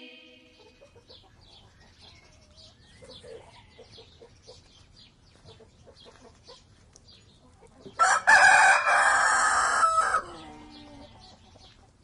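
A rooster crows once, a loud call lasting about two seconds that starts about eight seconds in, with softer chicken clucking before it.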